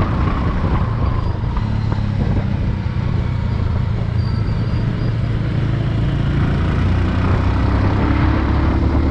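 Motorcycle engine running steadily while under way, over a constant rush of road noise; its pitch rises a little near the end.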